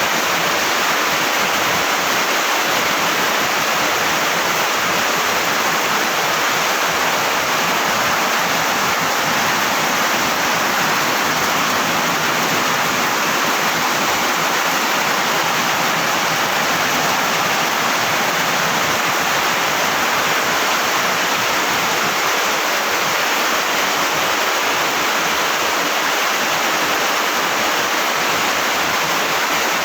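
Heavy rain pouring down in a loud, steady downpour.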